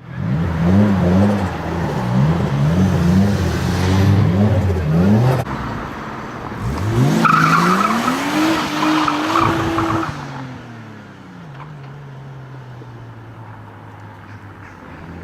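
Car engine revving hard in a quick series of rising and falling sweeps, then climbing in one long rise that holds high for a couple of seconds with a high squeal over it, before dropping back to a steady lower note.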